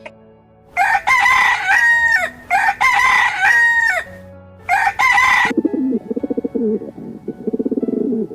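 Rooster crowing: two long cock-a-doodle-doo calls that drop in pitch at the end, then a shorter third call about five seconds in. Then a lower, rapidly pulsing sound through the rest.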